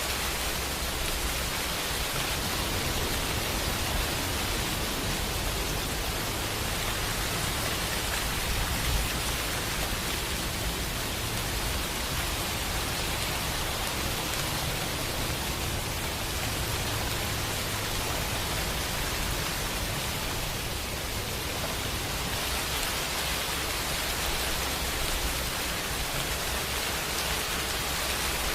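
Steady rain, an even hiss, with a low rumble underneath that swells and fades.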